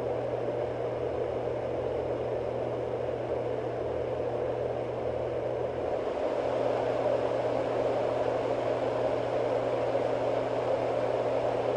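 SleepMate 980A white noise machine producing a steady rush of air at one setting. About halfway through it changes to a second setting that is slightly louder.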